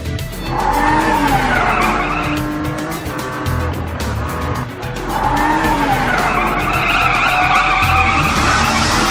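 Cartoon vehicle sound effects: tyres squealing and skidding in two long, wavering screeches, over background music with a steady beat.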